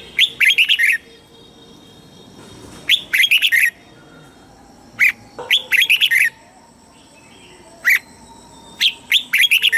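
Red-whiskered bulbul singing: short, loud phrases of quick whistled notes that slide in pitch, repeated every two to three seconds, some led in by a single call note.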